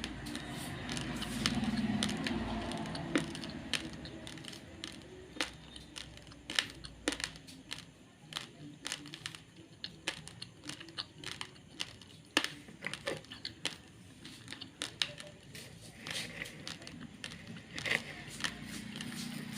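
Raw basmati rice grains being chewed: many sharp, crisp crunches at irregular intervals.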